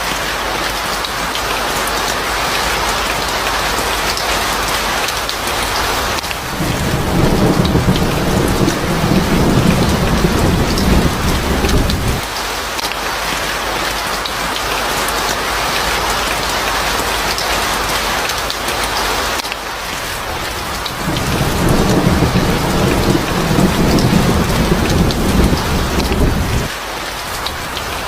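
Steady heavy rain, with two long low rolls of thunder: one starting about six seconds in, the other about twenty-one seconds in.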